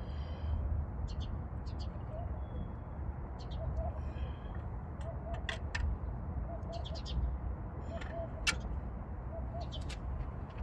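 Small birds chirping in short, scattered calls, with a low cooing call repeating softly, over a steady low rumble.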